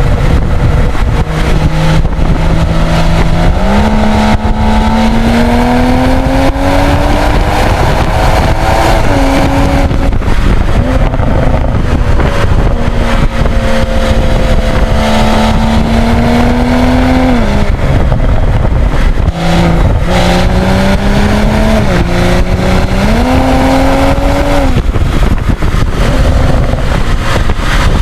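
BMW 3.0-litre turbocharged straight-six under acceleration: the revs climb and then drop sharply about five times, as at gear changes, over steady road and wind noise.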